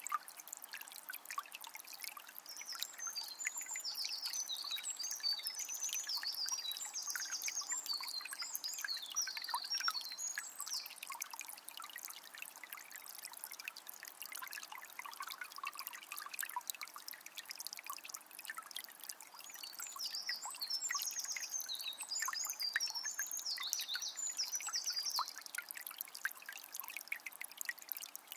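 Forest river flowing with a steady trickling, splashing rush. A songbird sings in quick high phrases in two bouts, from a few seconds in to about halfway and again shortly before the end.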